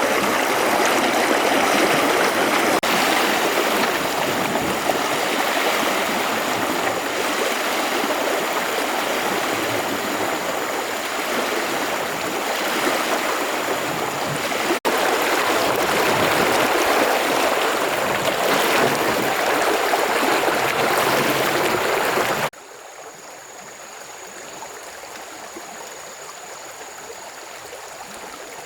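Steady rushing of flowing water, which drops suddenly to a much quieter hiss with a faint thin high tone about 22 seconds in.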